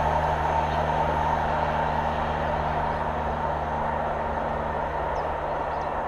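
Freight train rolling past on the line: a steady rumble of wheels on rail that slowly fades. Birds chirp faintly near the start and again near the end.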